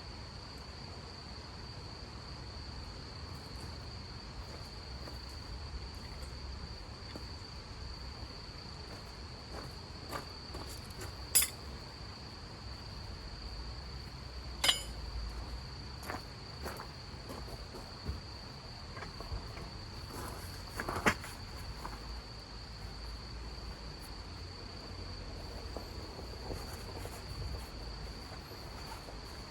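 Steady high-pitched insect trilling, as of crickets, without a break. A few sharp clicks and knocks are scattered over it; the three loudest come about 11, 15 and 21 seconds in.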